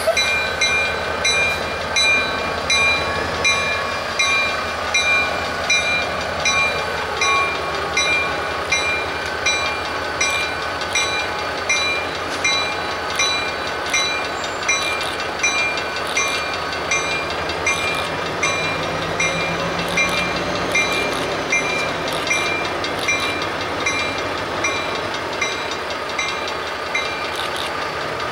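A diesel-hauled freight train rumbles across a road crossing while a bell rings steadily, about three strikes every two seconds. Faint wheel clicks come through in the middle.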